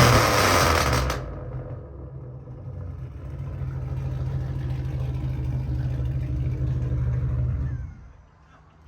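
Cammed V8 through a straight-piped exhaust, likely the 2008 Impala SS's 5.3 L LS4: a loud rev that ends about a second in, then the engine running low and steady, growing slightly louder, before it drops away sharply near the end.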